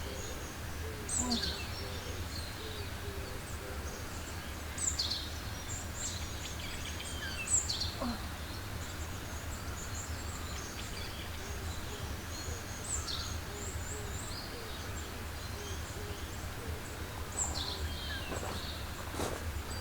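Forest birds calling: short, high, falling chirps every second or two, with a faint run of low repeated hooting notes beneath them, over a steady low rumble.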